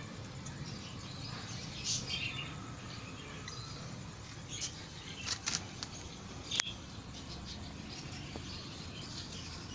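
Indian ringneck parakeet giving short, scattered chirps, a cluster of them past the middle, with one sharp click among them, over a steady low hum.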